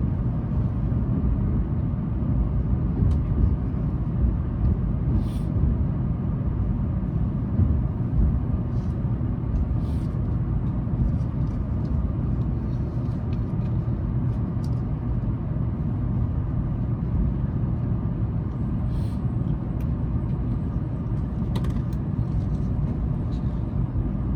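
Inside a Tokaido Shinkansen passenger car under way: a steady low rumble of the train running on the track, with a few faint clicks and knocks.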